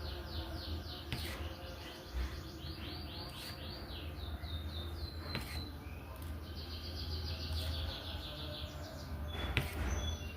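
Birds chirping in quick trills of rapid, falling notes, several runs in a row over a steady low hum, with a sharp click about every two seconds.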